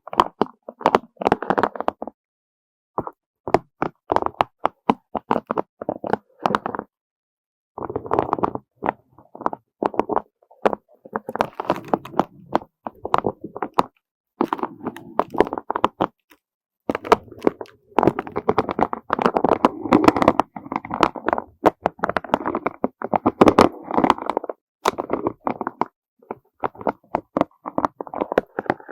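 Gentle, rapid tapping and clattering of small hard objects, in bursts of a few seconds with short silences between them.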